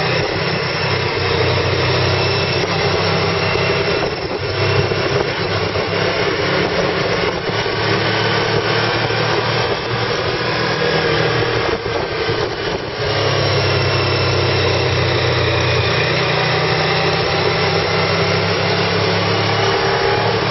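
Car engine running under way with road noise, heard from inside the cabin; the transmission is stuck in third gear.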